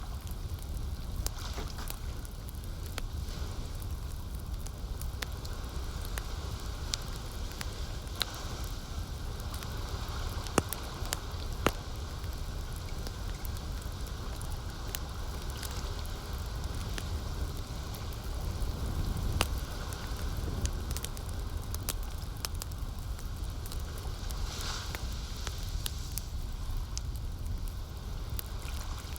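Campfire crackling, with scattered sharp pops and snaps from the burning wood; the loudest snaps come about ten and a half and twelve seconds in. A steady low rumble runs underneath.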